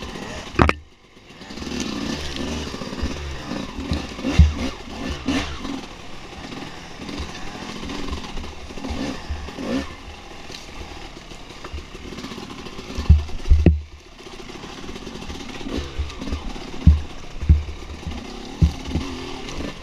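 Dirt bike engine running on a trail ride, its pitch rising and falling as the throttle opens and closes. Several heavy thumps break in, the loudest near the start, around the middle and near the end.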